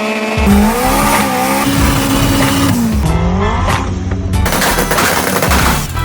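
Car engines revving, their pitch rising and falling, in a fast-cut montage: the sound changes abruptly several times, with music underneath.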